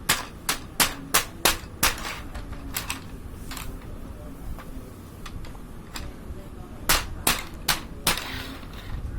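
A toddler's abacus: its beads sharply clacking as it is knocked about, in irregular runs of clacks, about five in quick succession at the start, a couple more around three seconds in, and four more near the end.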